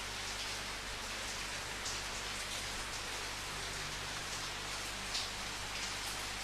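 Steady rain falling, an even hiss with the patter of individual drops standing out here and there, one louder drop about five seconds in.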